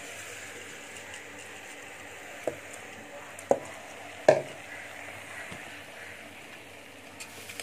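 Vegetables and spices sizzling in hot oil in an aluminium pressure cooker as soaked rice and toor dal are tipped in. Three sharp knocks against the pot come in the middle, the loudest about four seconds in.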